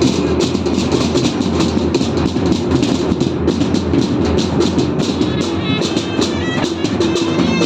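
Loud, fast, continuous drumming with a dense clattering beat, with a few short high tones about two-thirds of the way through.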